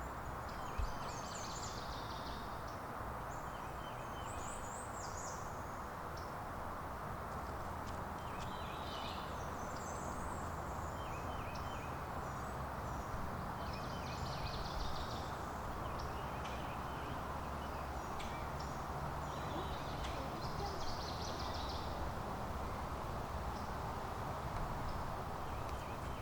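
Songbirds singing short, high-pitched phrases every few seconds over a steady background hiss.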